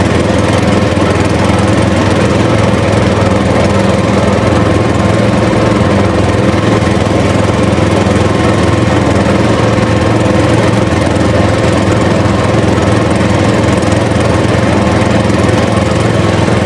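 A motor running steadily at a constant speed, an even droning hum with no revving.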